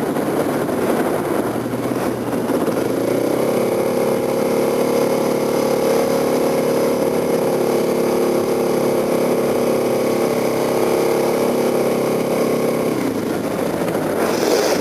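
Kawasaki KLX250SF single-cylinder four-stroke engine running while riding at speed, mixed with wind rush on the microphone. The engine note holds at a steady pitch from about three seconds in until near the end, when the rush of wind takes over again.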